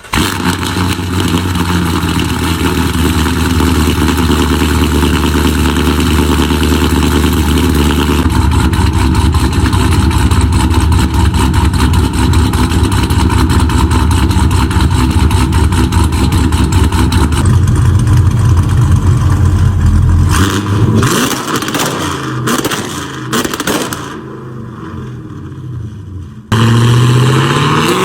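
2018 GMC Denali's cammed 6.2L V8 running loudly through long-tube headers, an X-pipe and dual Valvetronic mufflers, with a choppy idle. It drops quieter and uneven for a few seconds, then comes back suddenly loud with a rev rising in pitch near the end.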